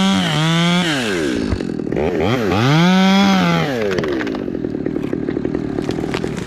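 Two-stroke chainsaw running at high revs, then coming off the throttle. It is revved once more and drops back to a rough idle for the last couple of seconds.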